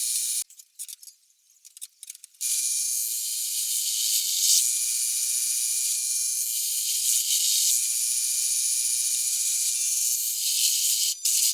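Power drill running with a steady high whine while drilling holes in car body sheet metal for spot welds. It stops for about two seconds near the start, with a few faint clicks, and briefly again near the end.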